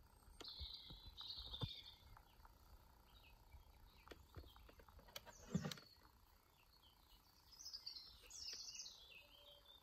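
Faint outdoor birdsong, a few birds chirping and calling, with a soft knock about halfway through.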